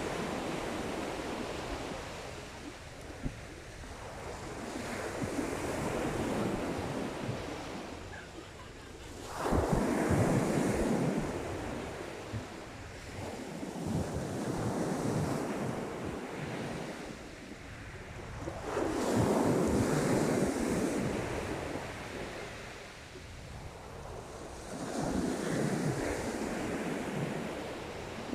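Sea waves breaking on a shingle beach, a surge of surf every five seconds or so, two of them clearly louder than the rest. Wind buffets the microphone underneath.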